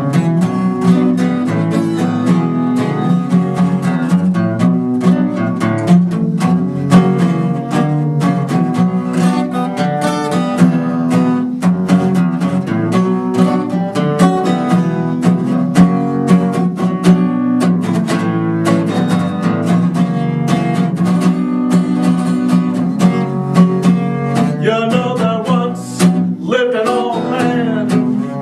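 Acoustic guitar playing a picked instrumental passage of a folk song over steady bass notes. A singing voice comes back in near the end.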